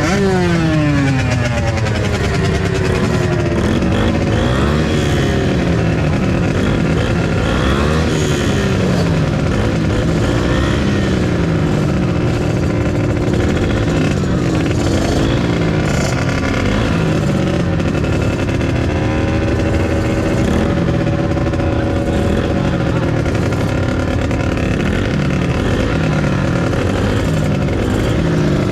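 Dirt bike engine racing at high revs, its pitch climbing and dropping again and again as the throttle is opened and closed, with a sharp fall in revs right at the start.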